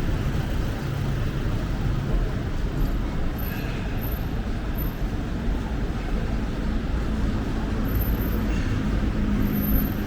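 Steady rumble of city road traffic: engines and tyres of passing cars and buses.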